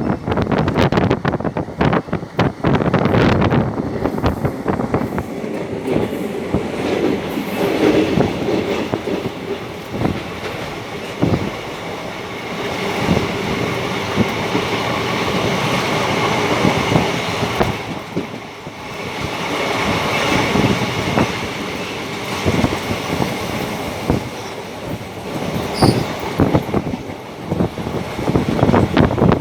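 Train running on its rails: the wheels clatter over rail joints, with a steady, high wheel squeal through the middle stretch.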